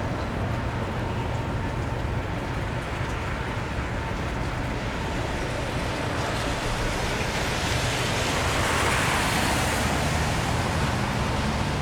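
Rain on a wet street with a steady low traffic rumble; a car passes on the wet road, its tyre hiss swelling to a peak about nine seconds in and then fading.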